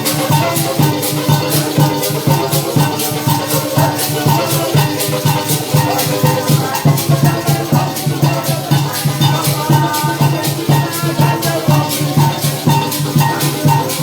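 Parang band music: maracas shaking a quick, even beat over pitched instruments and drum.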